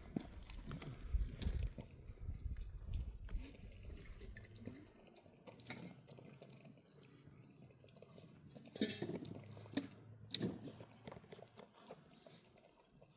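Steps on rough ground, with dull thuds in the first few seconds and a few sharp knocks about nine and ten seconds in, over a steady high insect trill.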